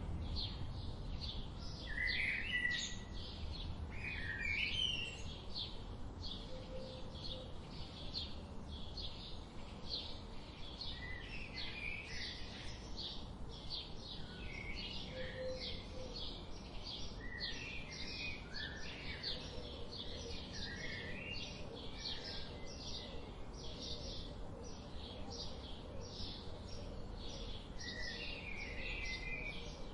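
Wild birds singing: a continuous run of short, high repeated notes about two to three a second, with warbling and chirping phrases from other birds breaking in every few seconds, over a low background rumble.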